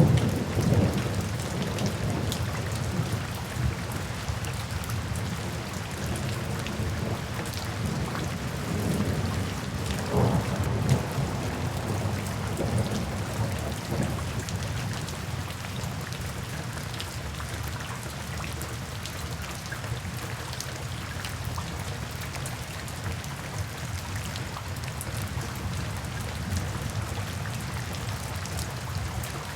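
Steady rain with scattered drop ticks, under low rolling thunder. The thunder is loudest right at the start and swells again about ten seconds in, then dies away, leaving the rain alone in the second half.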